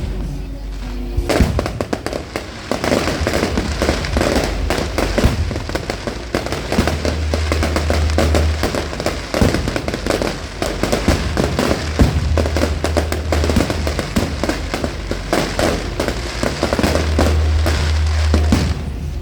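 Fireworks display going off: a dense, rapid crackle of bursts and bangs that starts about a second in and keeps up without a break.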